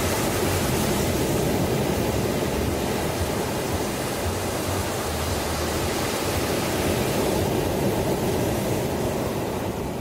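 Ocean waves: surf breaking and washing in a steady, full rush that eases off near the end.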